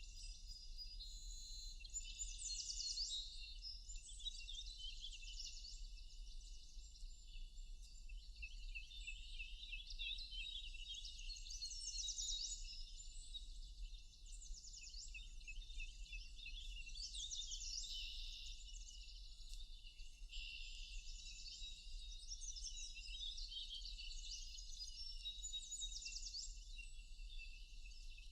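Several songbirds singing and chirping at once, with overlapping whistled phrases and rapid trills, over a faint steady low rumble.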